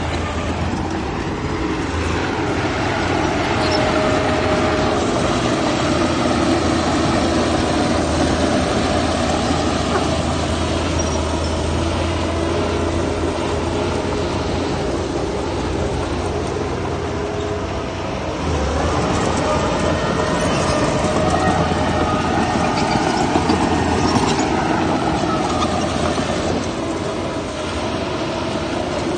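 Heavy diesel earthmoving machinery running steadily with a constant low engine hum. About 19 seconds in the engine note shifts, rising and then falling over several seconds as the load changes.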